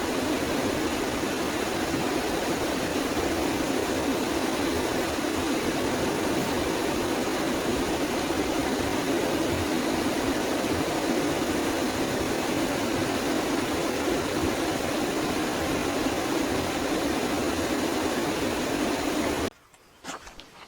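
Steady, loud rushing noise that cuts off suddenly near the end, leaving a much quieter background with a few faint clicks.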